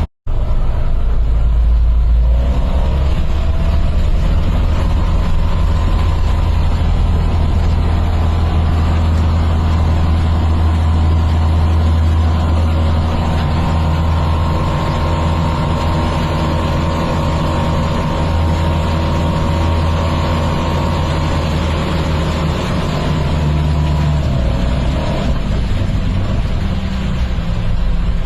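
An engine running: a loud, steady low rumble with faint whining tones that drift a little in pitch.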